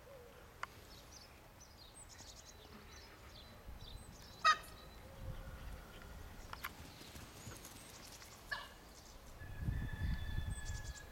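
Birds chirping here and there, with one short, loud call about four and a half seconds in and a low rumble near the end.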